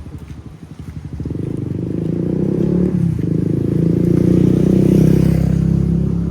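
A motor vehicle's engine passing close by, getting louder from about a second in, loudest about five seconds in, then fading.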